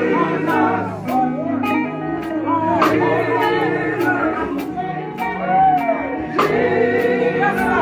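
Live gospel band music: voices singing over electric guitar and bass, with drum hits keeping a steady beat of about two a second.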